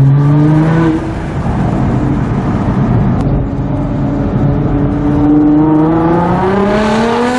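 2014 Nissan GT-R R35's twin-turbo V6 through an Armytrix titanium exhaust, heard on board, under hard acceleration. Its pitch climbs, drops about a second in, then rises steadily through a long pull and falls away near the end.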